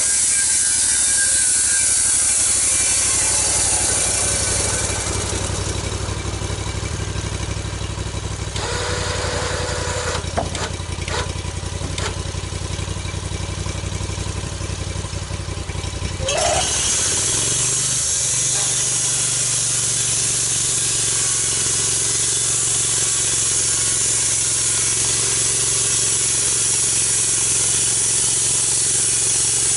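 Portable sawmill's engine running under load with a steady hiss of sawing through a log. About 9 s in the hiss drops away, leaving the engine running lower with a few clicks, and about 16 s in the engine revs back up and the sawing hiss resumes.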